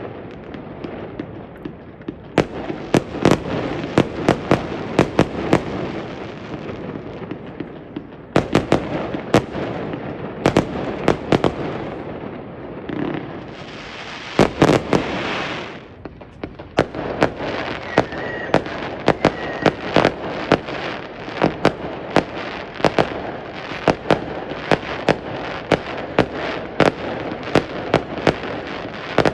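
Fireworks going off in quick succession: many sharp bangs and crackles, with a stretch of hissing about fourteen seconds in.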